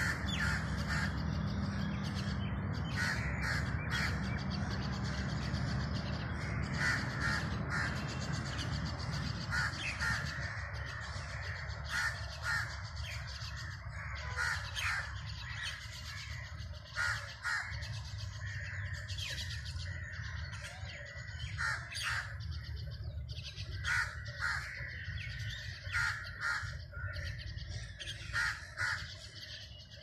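Birds calling outdoors: short, sharp calls repeated every few seconds, often in quick groups of two or three, over a low steady background rumble that eases about a third of the way in.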